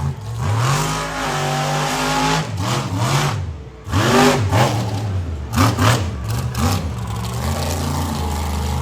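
Monster truck's supercharged V8 revving hard, the pitch rising and falling in repeated throttle blips, dropping briefly a little past the middle before surging back loud.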